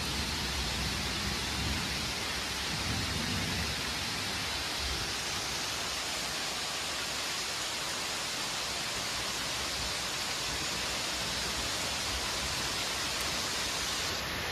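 Steady hiss of heavy rain falling on trees and ground, with a low rumble during the first few seconds.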